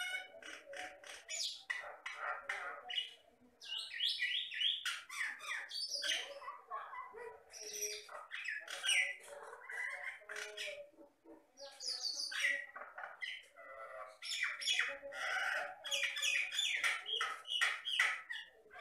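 Jalak Batam (common myna) singing a long, busy song of quick varied notes: whistles and pitch glides mixed with harsh chatter and squawks, with only brief pauses.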